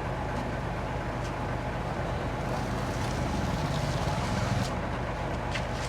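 Heavy diesel engine of earthmoving machinery running steadily, its low drone swelling for a second or so past the middle before settling back, with a few faint clicks.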